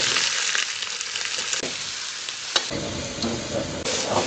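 Meat pieces sizzling as they drop into hot oil in a wok, then stir-fried. There is a sharp clink about two and a half seconds in.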